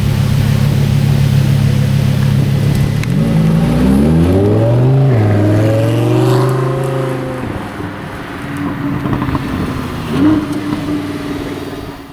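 A sports car engine running steadily, then accelerating away: its pitch rises for about two seconds, drops once as it shifts gear, holds, and then fades as the car drives off. A brief rev from another engine follows near the end.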